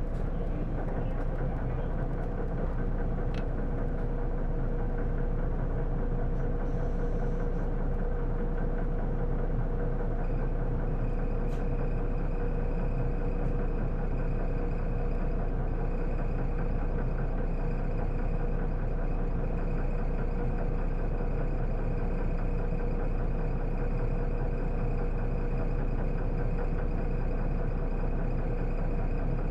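Isuzu Erga city bus's inline-six diesel idling steadily, heard from inside the passenger cabin, with a constant hum. A thin high steady tone joins about ten seconds in.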